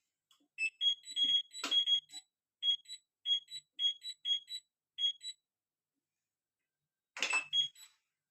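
Super General washing machine's control panel beeping: a string of short, high electronic beeps, with a sharp click about a second and a half in, then a pause and another click with a few more beeps near the end.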